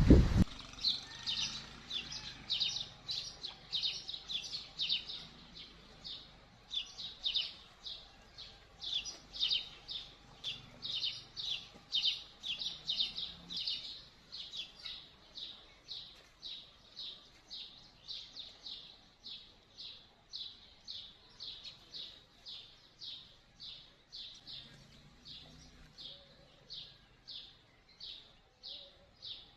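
A bird chirping steadily, short high calls repeated about twice a second, growing fainter toward the end.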